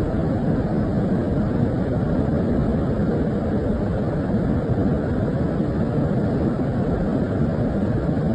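Rain-swollen stream in flood, water rushing steadily with a low, unbroken noise.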